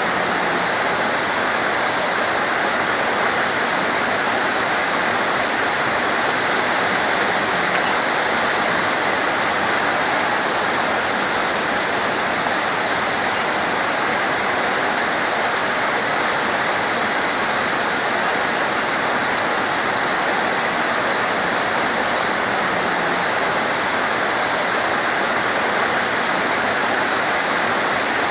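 Heavy, torrential rain making a dense, steady hiss. One sharp tick sounds about two-thirds of the way through.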